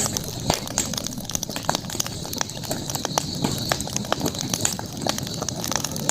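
Campfire crackling: irregular sharp pops and snaps from burning wood, several a second, over a steady high hiss of night ambience.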